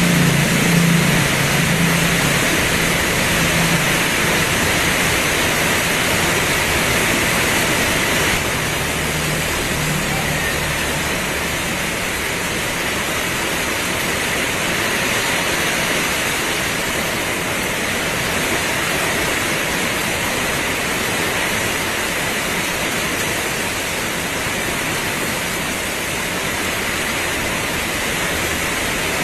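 Heavy rain pouring steadily, an even hiss. A low hum sits under it for the first ten seconds or so, then fades out.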